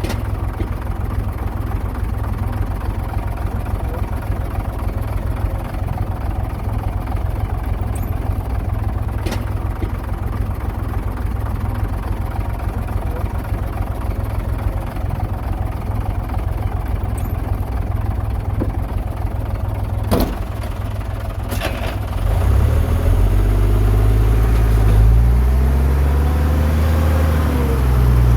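Heavy diesel earthmoving machinery running with a steady low drone and a few sharp knocks. About 22 seconds in it gets louder and revs up and down as it is worked harder.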